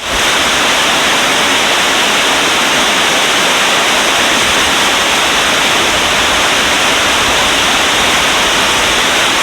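The Potomac River rushing: a loud, steady, unbroken rush of moving water.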